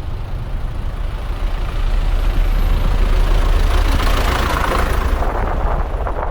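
Road traffic engines running close by, under a heavy low rumble of wind on the microphone; the noise grows louder about two seconds in and swells to its peak around four to five seconds, as of a vehicle passing.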